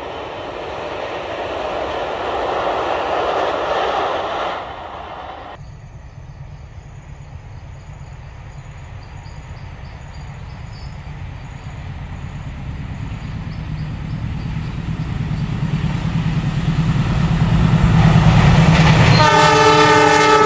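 A rushing noise swells and stops about five seconds in. Then a diesel locomotive's engine rumble grows steadily louder as the train approaches, and near the end its horn sounds, a chord of several tones.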